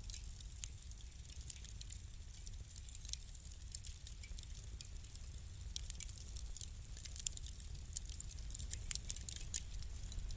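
Wood fire burning in a fireplace, crackling with irregular sharp snaps over a low steady rumble, the snaps coming thicker near the end.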